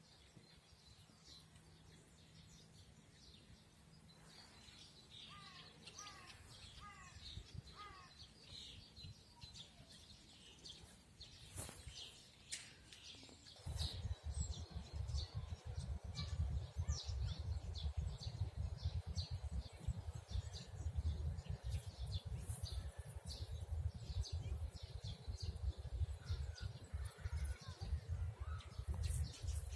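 Several small birds chirping and calling, with a few short, repeated falling notes in the first part. About halfway through, a loud low rumbling noise sets in and stays, under the birdsong.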